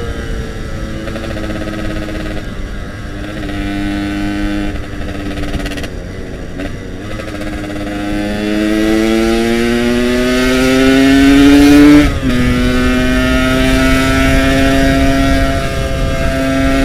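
Yamaha RX-King's two-stroke single-cylinder engine under way. It runs fairly steadily, then revs up with rising pitch for about four seconds. About twelve seconds in an upshift drops the pitch abruptly, and it then holds steady.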